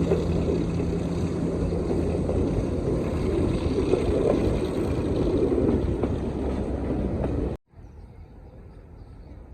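Heritage-railway diesel locomotive running loudly, with a steady low drone that drops away about two seconds in. The engine sound cuts off abruptly near the end, leaving a much quieter outdoor background.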